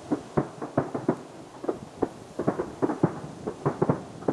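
Aerial firework shells bursting in a rapid star mine barrage. The booms are sharp and come several a second at uneven spacing, each followed by a brief rumble.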